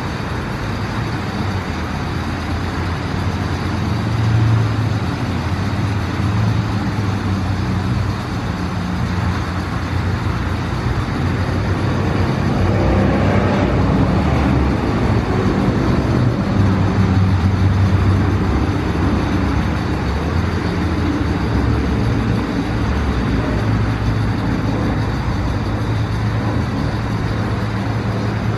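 An automatic car wash machine running: a steady low hum of motors and pumps under a rushing noise, a little louder from about halfway through.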